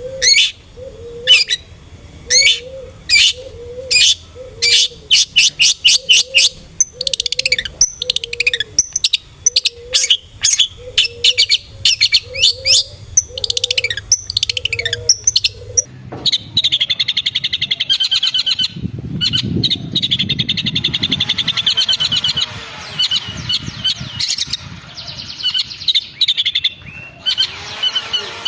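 Long-tailed shrike (cendet) calling: a run of sharp, high, downward-swept calls over a repeating low note, then, from about halfway, a fast, continuous chattering trill.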